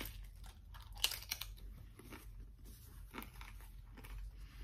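Crunching of a crisp fried corn tostada shell being bitten and chewed, with a run of small crackles and a louder crunch about a second in.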